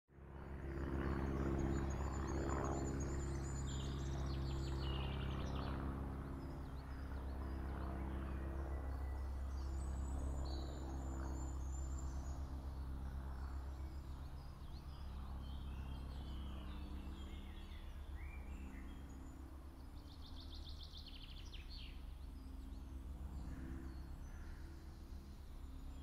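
Birds chirping and singing, with a couple of quick trills, over a steady low hum.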